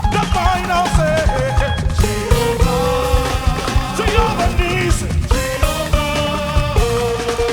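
Upbeat live gospel praise music: a band with a steady, pulsing beat under a wavering melody line, most likely a lead voice singing.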